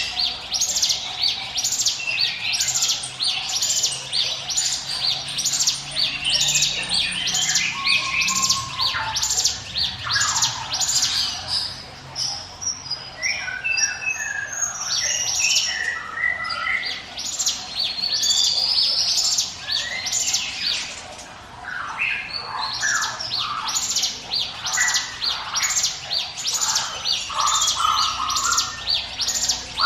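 Ciblek gunung (a mountain prinia) singing its 'ngiwit wit' song: a long run of sharp, high, repeated notes, about one and a half a second, breaking into more varied warbling phrases around the middle before the repeated notes return.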